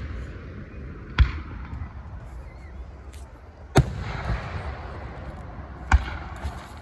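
Fireworks shells exploding: three sharp bangs about two seconds apart, each followed by a low rumbling tail and a fizzing hiss.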